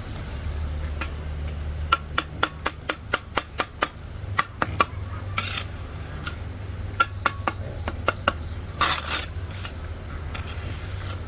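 A run of sharp knocks, about four a second for two seconds, then scattered single knocks and two short scraping noises, over a steady low hum.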